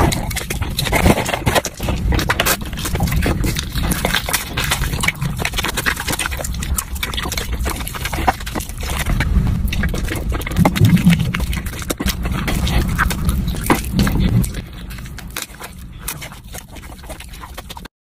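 Wet, smacking chewing of saucy chicken wings eaten one after another, a dense run of mouth clicks and squelches, softer for the last few seconds before it cuts off.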